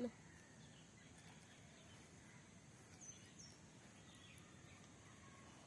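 Near silence: faint background hiss, with two faint, short, high chirps about three seconds in.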